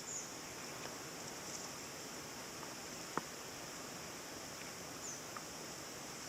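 Steady rushing of a small forest river, with a constant high hiss above it and a single sharp click about three seconds in.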